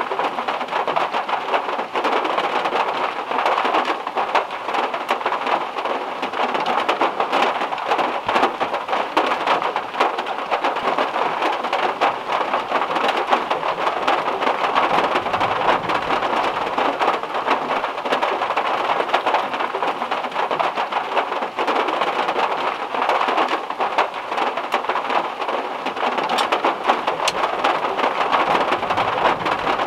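Heavy rain hitting a car's metal roof, a dense, steady mass of drop impacts with no let-up.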